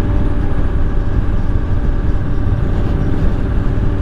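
2017 Honda Africa Twin DCT's 998 cc parallel-twin engine running steadily while riding, under a heavy low rush of wind noise on the microphone.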